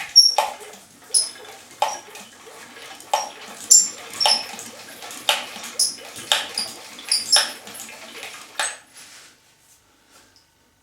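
About a dozen sharp metallic clacks at irregular intervals, each with a brief high ringing, stopping a couple of seconds before the end.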